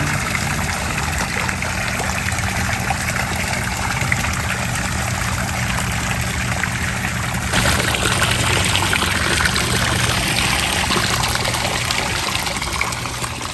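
Water from a rock garden fountain trickling and splashing into its pool, a steady rush of falling water that gets louder and brighter about seven and a half seconds in.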